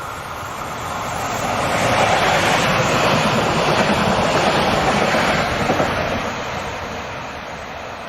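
An S-Bahn train passing by: a rushing rumble that swells to a peak about two seconds in, holds for a few seconds with a couple of sharp clacks, then fades away.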